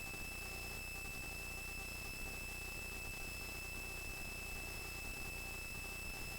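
Helicopter in flight heard from inside the cabin: a steady high-pitched whine over a low hum, unchanging throughout.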